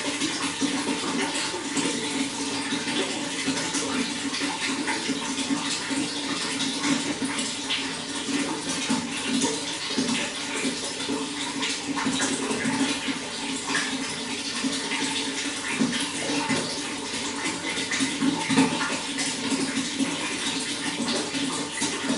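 Running water, a steady flow with continuous small splashes.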